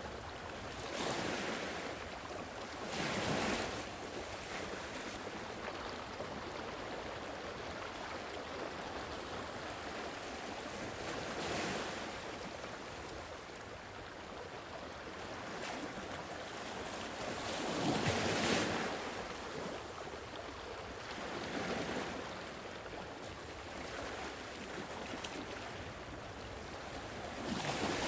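Sea waves washing onto a shore: a steady rush of surf that swells in louder surges every few seconds, the strongest a little past the middle.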